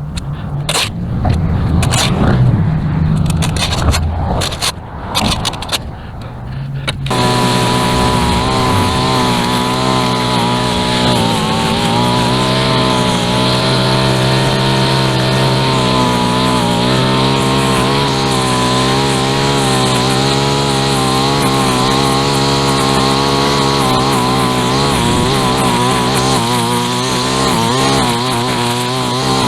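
A few seconds of scraping and knocking, then about seven seconds in a two-stroke string trimmer comes in at full throttle and runs steadily at high speed.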